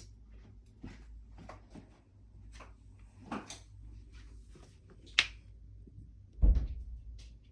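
Scattered light knocks and clicks of household handling, with a sharp click about five seconds in and a heavy thump about a second later, the loudest sound.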